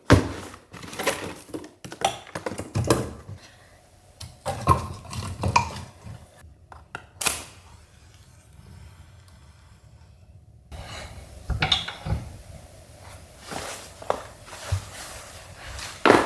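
Irregular knocks and clatter of hard objects being handled and set down, in a few short stretches separated by abrupt cuts.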